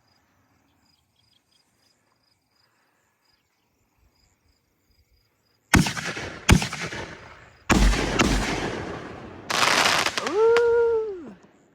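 Two 6-inch fireworks canister shells are fired: two sharp mortar launch reports about a second apart, then two heavy booming breaks with deep rumble about two seconds later, followed by a couple of seconds of rolling, thunder-like echo and crackle. Faint insects chirp before the launches.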